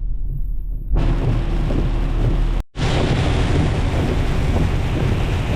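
Heavy rain pouring down with a deep low rumble underneath. For about the first second only the low rumble comes through, and the whole sound drops out for an instant about two and a half seconds in.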